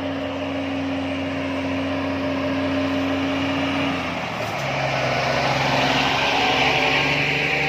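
Scania P360 truck's diesel engine pulling uphill. About four seconds in the engine note steps down in pitch, and the engine and road noise then grow louder.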